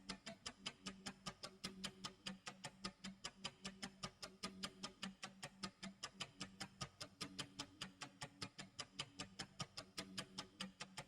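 Clock tick-tock sound effect: even, fast ticking at about five ticks a second.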